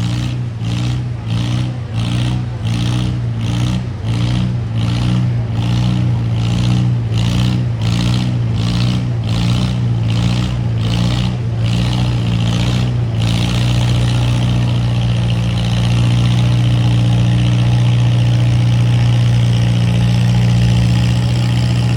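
Farm tractor engine under load in a pulling contest, pulling a sled. It throbs regularly about one and a half times a second, then about halfway through settles into a steady, louder run that grows louder again a few seconds later.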